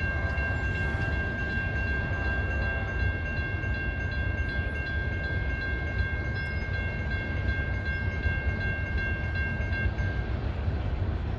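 Amtrak passenger train rumbling past, its horn held in one long steady blast that cuts off about ten seconds in.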